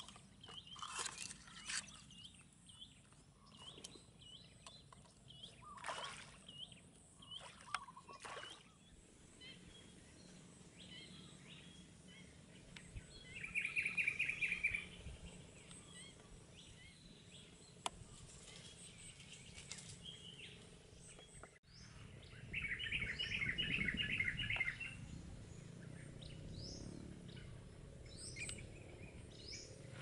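Wild birds calling: scattered short chirps in the first several seconds, then a fast trill of rapidly repeated notes about halfway through and again, longer, about three quarters of the way through. The trills are the loudest sounds, over a faint steady low background.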